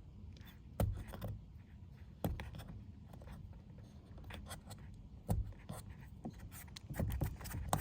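A plastic pry tool scraping and picking at adhesive on a car door-handle trim piece, heard as scratchy rubbing with scattered sharp clicks that grow busier near the end.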